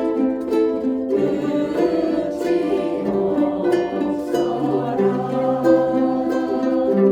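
Ukulele ensemble playing a song together, plucked chords sounding in a steady rhythm.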